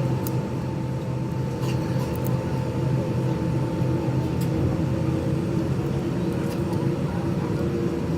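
Steady hum and rush of a Boeing 787-8 Dreamliner's jet engines heard from inside the passenger cabin, holding an even pitch without spooling up or down.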